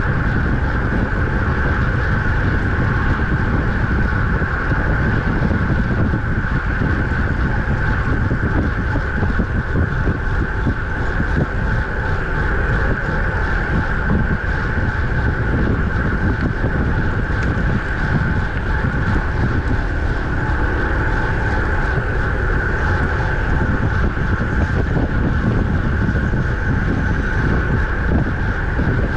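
Steady wind rushing over the microphone of a road bike riding at speed, with tyre and road noise underneath.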